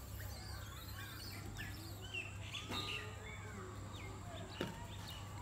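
Several birds chirping, with short rising and falling calls scattered throughout, over a steady low hum.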